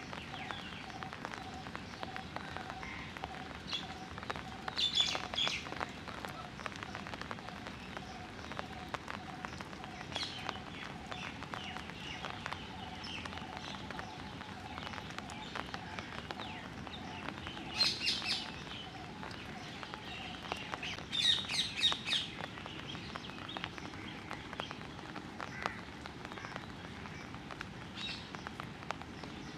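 Birds chirping in several short bursts over a steady background hiss, the loudest bursts about two-thirds of the way through. A faint steady hum runs underneath and fades out past the middle.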